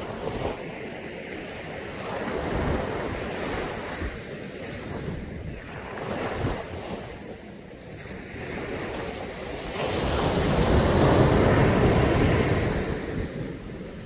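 Caribbean Sea waves washing onto a beach in a steady surf, rising and falling in swells, the largest breaking about ten seconds in and lasting a few seconds.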